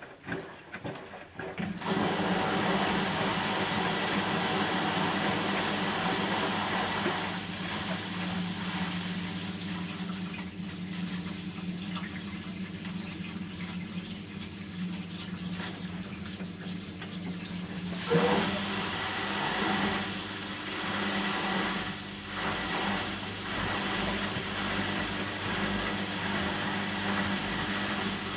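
Bosch washing machine on a synthetics 40 °C cycle: water rushing and sloshing over a steady motor hum. It starts about two seconds in after a few knocks, eases off a third of the way through, and picks up again after a short knock about two-thirds of the way through.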